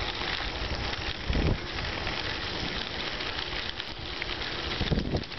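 Wind buffeting the microphone of a camera on the move along a road, a steady rush with gusts of low rumble about a second and a half in and again near the end.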